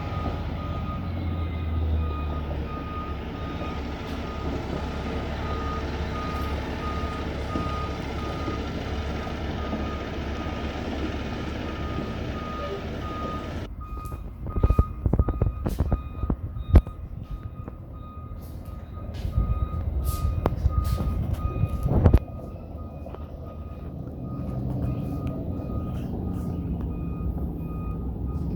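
Truck engine running with its reversing alarm beeping in a steady repeating pattern. About halfway through the sound changes abruptly to a run of knocks and clatters over the engine.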